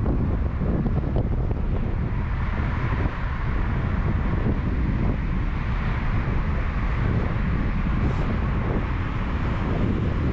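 Wind buffeting the microphone: a steady heavy rumble with a hiss over it.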